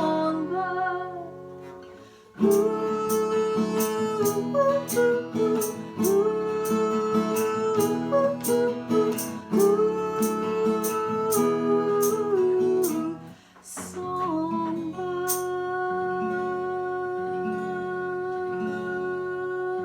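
Acoustic guitar strummed steadily as a song's instrumental ending, with a woman's wordless sung 'ooh' line over it. The playing stops briefly twice.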